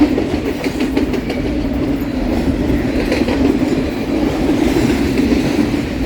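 A train passing close by, its wheels rolling over the rails in a loud, steady rumble.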